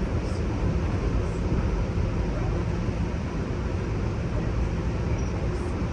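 Steady low rumble of a moving Amtrak Superliner passenger car, heard from inside the lounge car.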